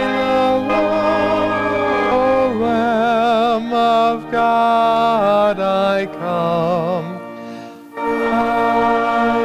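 Hymn music: a melody sung or played with strong vibrato over sustained, held accompaniment chords. The music eases off briefly about seven seconds in, then resumes with a new held chord.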